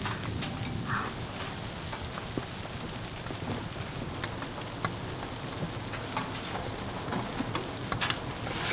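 Steady patter of precipitation falling on a surface, with scattered sharp ticks throughout.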